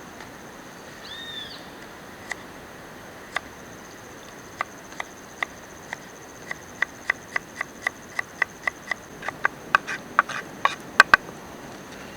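A series of sharp taps or clicks that speed up and grow louder toward the end, over a steady high-pitched insect drone.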